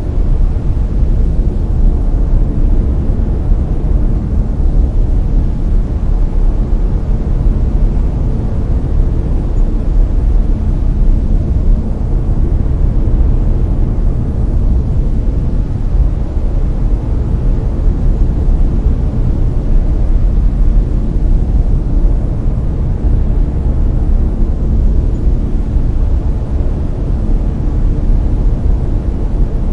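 Layered brown noise: a loud, steady, deep hiss heaviest in the low end, with slow gentle swells in level.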